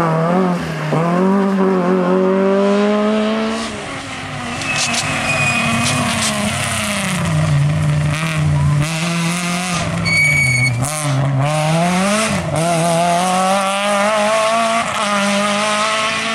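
Rally car engine at full effort, its revs climbing and dropping repeatedly through gear changes and lifts. A short high-pitched tone sounds about ten seconds in.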